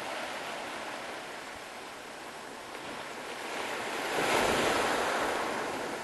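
Sea waves breaking and washing up on a sandy beach, with a louder wave rushing in about four seconds in.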